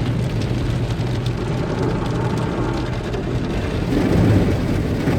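Car wash water spraying and drumming on the car's body and windows, heard from inside the cabin, over a low steady hum; it gets louder about four seconds in.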